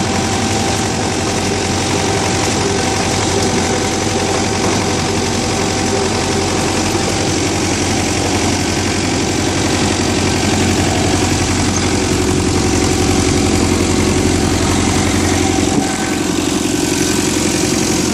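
David Brown 995 tractor's three-cylinder diesel engine idling steadily, still cold just after a hard cold start in freezing weather. The engine note drops slightly about two seconds before the end.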